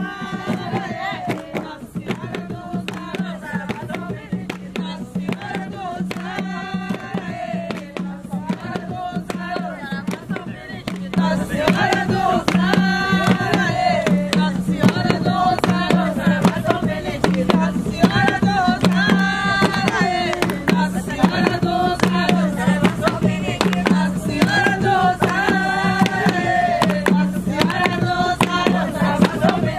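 Jongo music: voices singing a ponto over steady hand-drum beats. It becomes louder about 11 seconds in.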